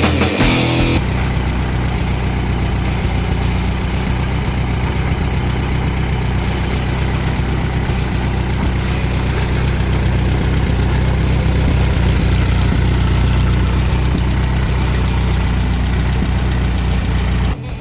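Volkswagen Baja Bug engine idling steadily, the music breaking off about a second in; the engine sound cuts off abruptly near the end.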